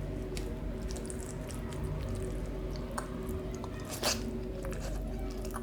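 Chewing and wet mouth sounds of someone eating chicken curry and rice by hand, with scattered small clicks and one louder smack about four seconds in, over a steady low hum.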